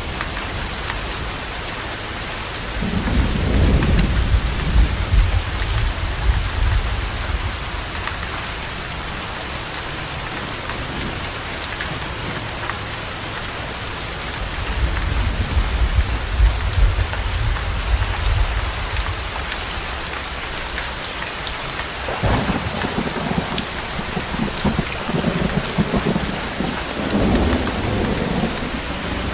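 Steady rain falling, with rolls of thunder rumbling three times: a few seconds in, around the middle, and again near the end.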